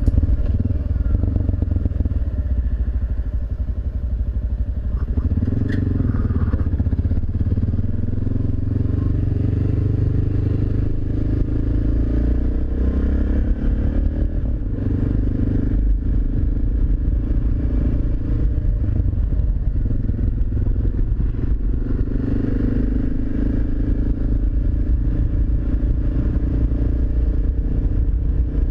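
Suzuki DR650SE single-cylinder engine running under way through an aftermarket Barrett exhaust. The engine note shifts in pitch around the middle as the bike changes speed.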